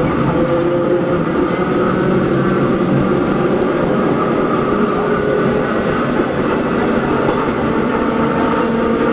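Hakone Tozan Railway Moha 1 electric car No. 106 running, with its nose-suspended SE121-A traction motors and gears giving a steady whine over continuous rolling noise. The pitch of the whine shifts a little, with a lower tone coming in near the end.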